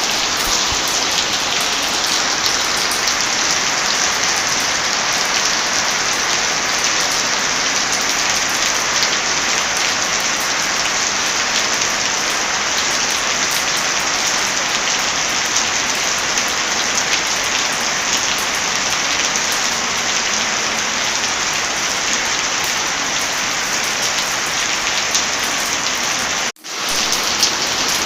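Heavy rain falling in a steady, even hiss. It cuts out suddenly for under a second near the end, then comes back.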